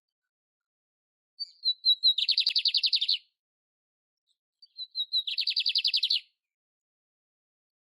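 Canário-império (canary) singing: two matching phrases about three seconds apart, each a few short high notes running straight into a fast, even trill lasting about a second.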